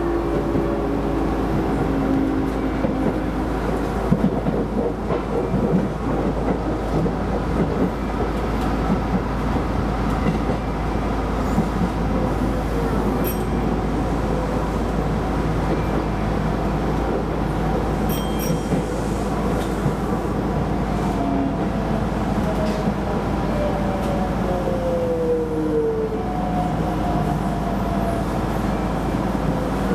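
Keisei Line electric train running along the track, heard from inside the leading car: a steady rolling rumble with a faint electric motor whine that glides in pitch, falling about three quarters of the way through. A few sharp clicks of the wheels over the rail joints come about four to six seconds in.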